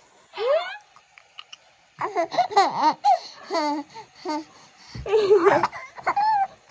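A baby about five months old laughing: a short rising squeal, then repeated bursts of high-pitched giggling in quick runs.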